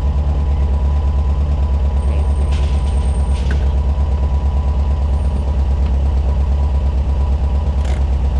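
Air-cooled flat-four boxer engine of a 1985 VW Fusca (Beetle) running with a steady, low, pulsing exhaust note. Brief hissy noises come about three seconds in and again near the end.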